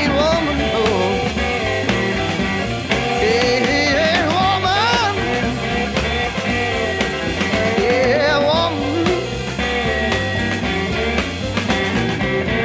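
Blues-rock band recording: a lead line bends and wanders in pitch over a steady beat from the full band, with no words sung.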